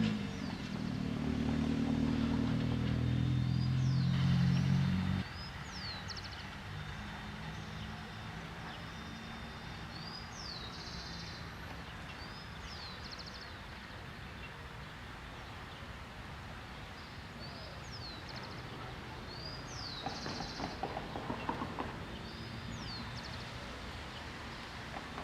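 Loud low droning tones cut off abruptly about five seconds in. After that, birds chirp in repeated short phrases every few seconds over a steady low hum, with a brief rattle of clicks about twenty seconds in.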